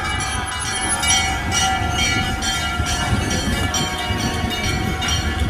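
Road noise on a moving motorcycle: steady low wind and engine rumble, overlaid by sustained, overlapping tones that shift every second or so.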